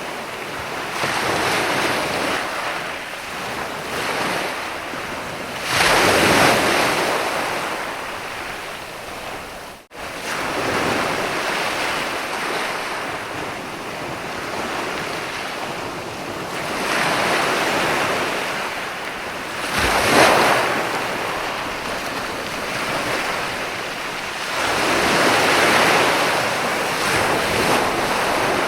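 Ocean waves breaking on a sandy beach. The surf surges and washes back in slow swells, loudest about six seconds in, around twenty seconds and near the end. The sound cuts out for an instant near ten seconds in.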